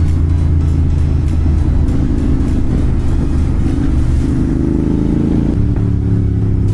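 Royal Enfield Continental GT 650's parallel-twin engine running through an aftermarket slip-on exhaust while riding, a steady note whose pitch shifts about five and a half seconds in.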